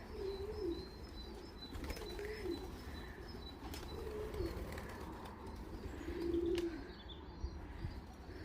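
Racing pigeons cooing: four low, warbling coos about two seconds apart, with faint chirping of small birds and a few light clicks behind them.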